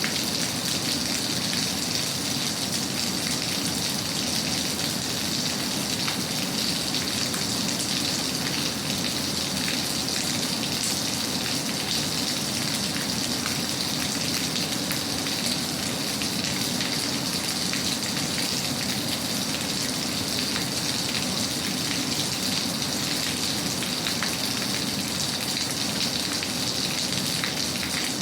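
Steady rain falling, with scattered small raindrop ticks on a surface.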